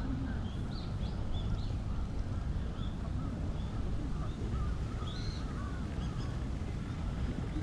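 Birds calling: a scatter of short chirps and calls, some higher and some lower, over a steady low background rumble.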